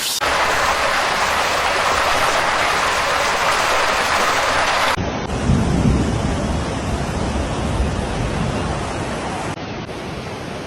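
Loud, steady rushing noise of heavy rain and water. About five seconds in it cuts to a deeper rumbling roar that swells briefly, then drops to a quieter rush near the end.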